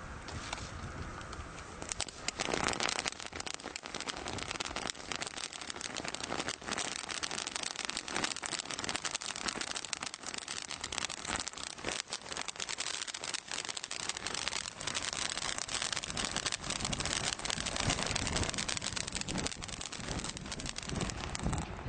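Consumer firework crackling: a dense, continuous run of rapid small pops and snaps, starting about two seconds in.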